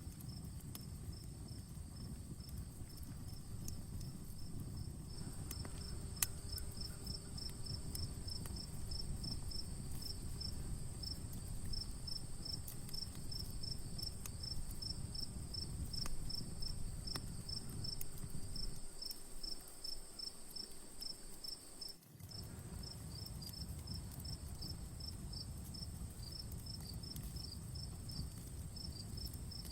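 Crickets chirping in a steady fast pulse, about three a second, with a continuous high insect trill over them, above the low steady rush of an outdoor campfire. A few sharp crackles and pops come from the fire, the loudest about six seconds in.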